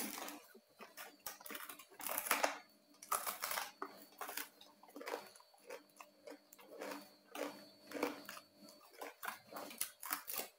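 Close-up chewing and biting of crispy roast pork (saucu), with irregular crunches several times a second.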